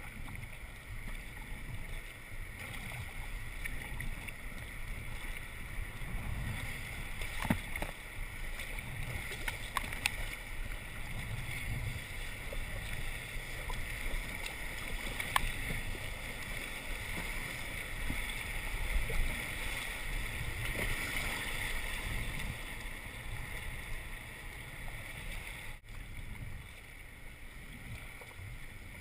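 Kayak on moving river water: steady water noise with wind buffeting the microphone, and a few short sharp knocks scattered through.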